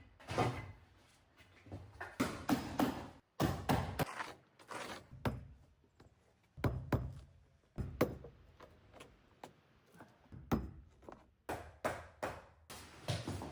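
Irregular knocks and thunks from working a jammed wooden sliding train door, stuck because rotten wood has swollen and pushed the door up off its rails.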